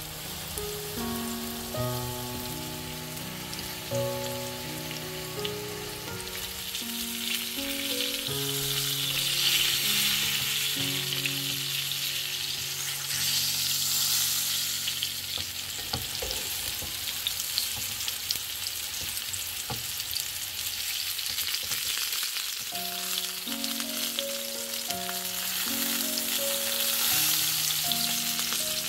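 Cornmeal-coated chicken thighs frying in hot vegetable oil in a pan: a steady sizzle that grows louder after the first several seconds. Soft background music of held notes plays under it in the first and last parts.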